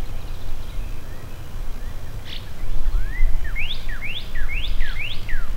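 A songbird singing a repeated phrase of clear whistled notes, each sliding up and then dropping, about two a second, starting a little past halfway, over a steady low rumble.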